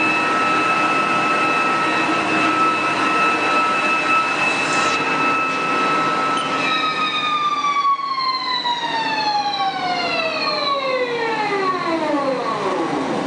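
Haas TL3B CNC lathe spindle running with a steady high whine, then spinning down after about six and a half seconds, the whine falling steadily in pitch as it slows.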